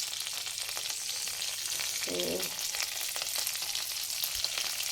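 Chopped garlic frying in melted butter in a pan over a high flame: a steady sizzling hiss with fine crackles and spatters.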